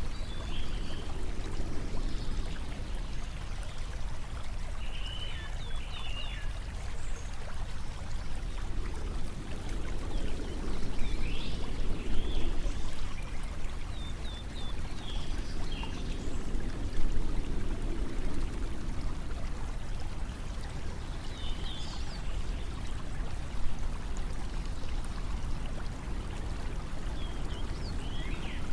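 Steady flowing water, like a stream or pouring water, with short high chirps now and then.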